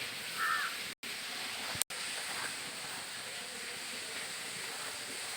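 Steady outdoor background noise, like wind on the microphone, cut by two brief dropouts about one and two seconds in.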